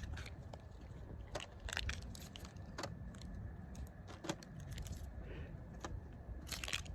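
Pollen patty being broken up by hand into small pieces and spread over the hive: irregular small crackles and clicks over a steady low rumble.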